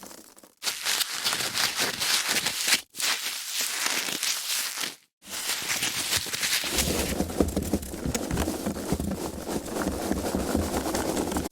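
Foam packaging being handled: dense squeaky, crackly rubbing and crunching in bursts, with short pauses. From about two-thirds of the way through it grows fuller and deeper.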